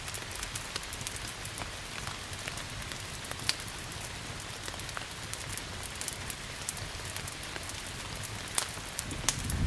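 Steady rain with scattered sharp pops of a crackling wood fire. Near the end a low rumble of thunder begins to swell.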